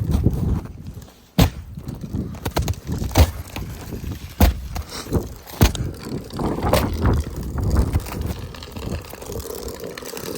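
Footsteps crunching through deep snow, about one step a second, over a steady low rumble.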